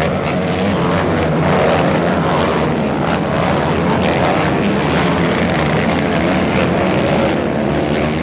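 Off-road race trucks' engines running hard at high revs during a race, several engines blending into one loud, steady sound.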